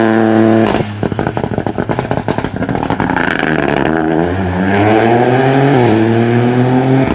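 Rally car engine held at high revs, then lifted off about a second in with a rapid run of crackles. The engine then accelerates hard again from about four seconds, rising in pitch through one gearshift.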